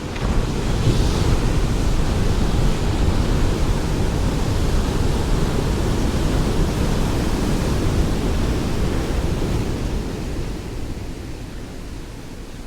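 Ocean waves breaking on a shore. A wave crashes sharply at the start with a brief hiss of spray, its rushing wash runs on for about ten seconds, then fades as the water draws back.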